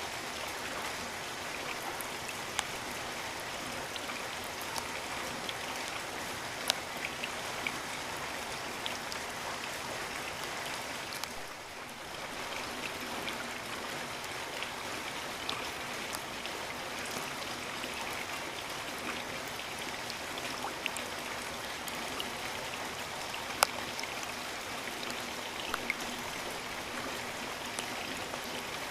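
Steady rain, an even hiss with scattered sharper drop hits; the brief hiss dips about twelve seconds in.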